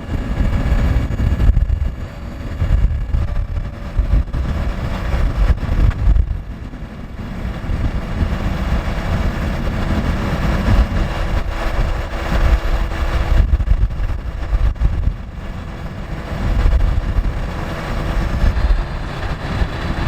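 Scania R580 truck's V8 diesel engine running steadily, with a rumbling low end that rises and falls.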